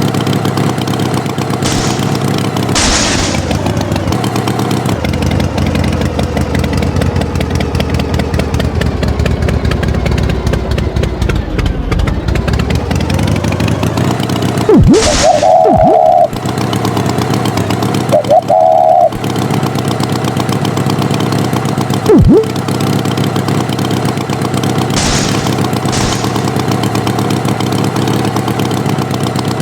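Tractor engine sound effect running steadily, its pitch dipping and then climbing back about halfway through. Two loud horn-like honks come past the middle, and a few quick springy boing glides are heard.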